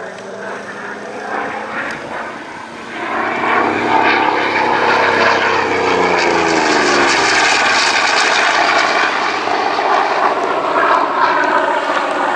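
Propeller aircraft flying past, its engine growing loud about three seconds in, with the engine note falling in pitch as it passes, then a steady loud engine roar.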